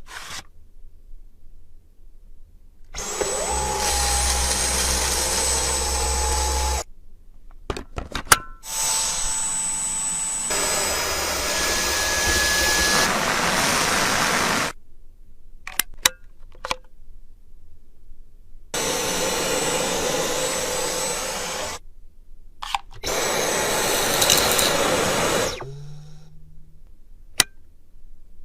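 Vacuum cleaner motor running in four stretches of a few seconds each, a steady rushing noise with a high whine, switched off in between, with a few sharp clicks in the pauses.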